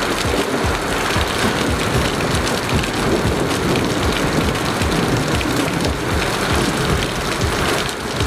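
Heavy thunderstorm rain falling steadily in a dense hiss, with frequent dull low thuds mixed in.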